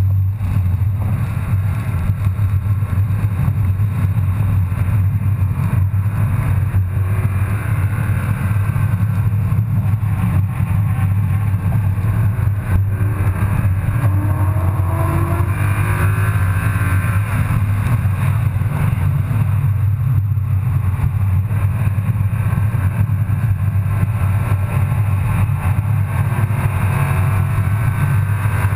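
Car engine and road noise heard from inside the cabin while lapping a wet track: a steady low drone, with the engine note rising and falling as the car accelerates and changes gear.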